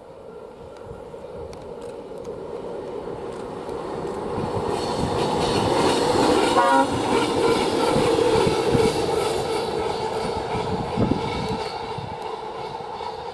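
ChME3 shunting diesel locomotive passing by. It grows louder over the first half, peaks about halfway through with a drop in pitch as it goes past, then fades.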